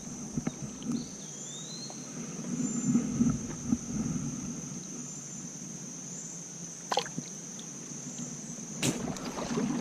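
River ambience: low water sounds from moving water, under a steady high-pitched summer insect drone. There is a short chirp about a second in, and a couple of sharp clicks near the end.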